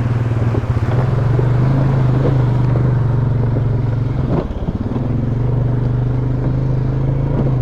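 ATV engine running steadily while the machine is ridden, a low even drone with a brief dip in the engine note a little over four seconds in.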